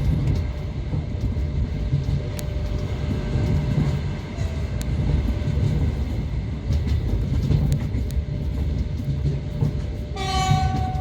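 Train rumbling steadily along the rails, heard from aboard, with a short horn blast near the end.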